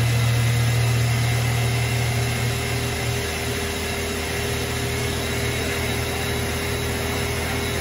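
High-mileage 1994 Ford Mustang GT's 5.0-litre pushrod V8 idling steadily, a little quieter for a moment a few seconds in.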